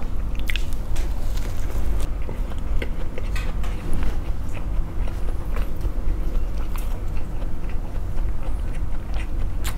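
Close-miked chewing of a flaky meat-filled pastry pie, with scattered small crunches and mouth clicks over a steady low hum.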